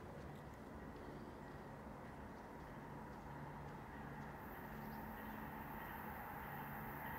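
Faint sound of an approaching Amtrak Northeast Regional train, growing slowly louder, with a high steady hiss setting in about four seconds in.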